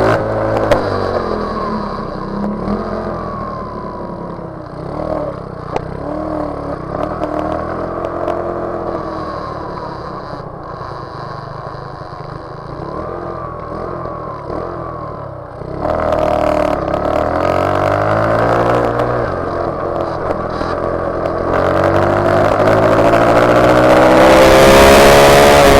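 Motorcycle engine running on the move, its pitch rising and falling as it revs and changes gear. It gets louder about two-thirds of the way through and is loudest near the end, under hard acceleration.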